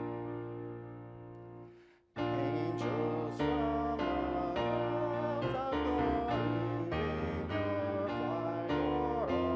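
Keyboard playing the hymn of praise: a held chord fades and stops about two seconds in, then the accompaniment starts again with voices singing along.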